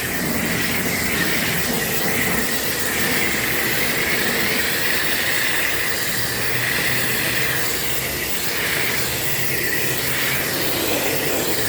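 Self-serve car wash spray wand hissing steadily as it sprays water onto a pickup truck.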